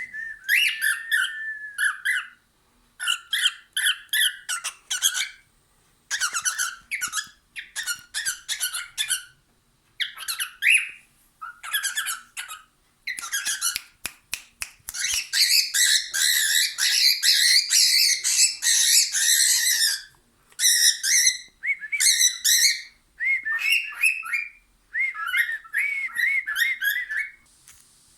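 Pet bird chattering and squawking in repeated bursts of a second or two, mixed with short whistled notes, with one longer unbroken run of chatter about two-thirds of the way through.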